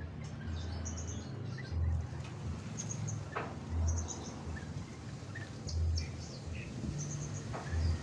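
Long-tailed shrike calling: short, high, rapid chirps in clusters, with a couple of quick downward-sweeping notes. Under them a low rumble swells about every two seconds.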